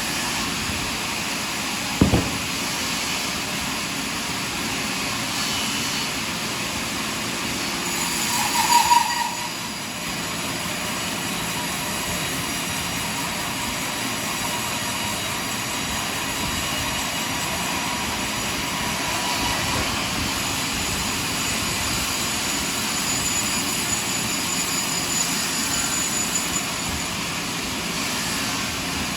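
Sawmill machinery running steadily while sawing a large pine log, with a sharp knock about two seconds in and a brief louder burst a few seconds later.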